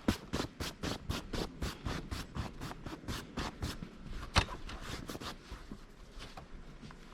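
Snow being cleared by hand: rapid, even scraping strokes, about four a second, with one louder stroke just after four seconds, then thinning out near the end.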